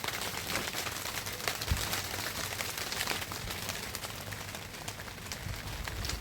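Rain falling steadily, with many drops pattering and ticking on a surface.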